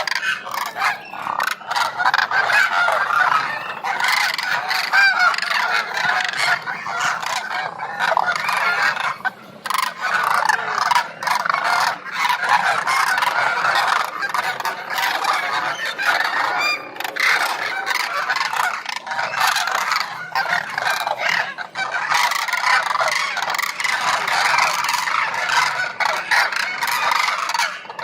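A large flock of birds calling together, many calls overlapping continuously.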